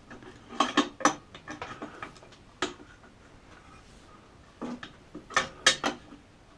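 Metal parts and hand tools clinking and knocking as they are handled on a workbench, in short clusters of sharp clicks: a few about a second in, a single one in the middle and a quick run near the end.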